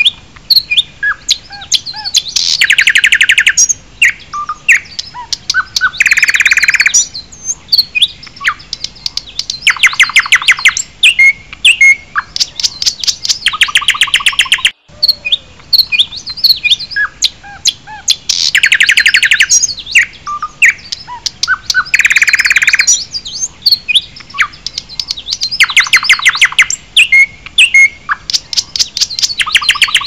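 Songbirds singing: bursts of fast trills broken by scattered short chirps and whistles. The same sequence repeats about every fifteen seconds, as in a looped recording.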